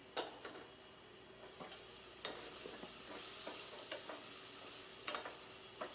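Asparagus and portobello mushrooms sizzling as they saute in a pan, the sizzle growing louder about a second and a half in. A few sharp clicks of a utensil against the pan as they are stirred.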